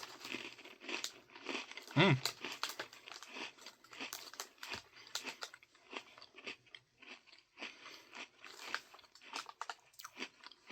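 Close-up crunching and chewing of a crisp sandwich cookie, an apple pie à la mode Oreo, with many small sharp crunches and one louder crunch about two seconds in.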